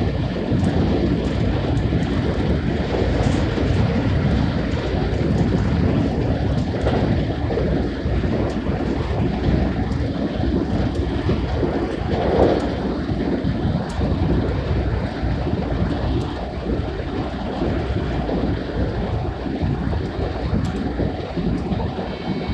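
Inside the carriage of a JR West 223 series electric train running on the line: a steady rumble of wheels on rail, with a brief louder swell about halfway through.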